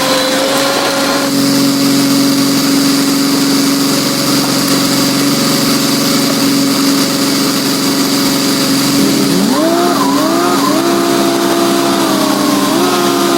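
Heavy construction machine's engine running steadily, then changing pitch up and down from about two-thirds of the way through as it is revved under load.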